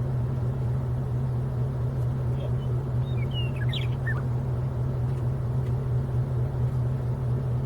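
Steady low hum of an idling vehicle engine, with a few short high bird chirps about three seconds in.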